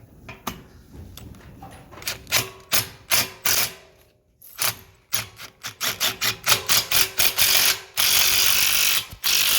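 Power drill/driver driving screws through an aluminum fence-gate upright into the horizontal rail: a run of short bursts and sharp clicks, then a steady run of the motor for the last second or two.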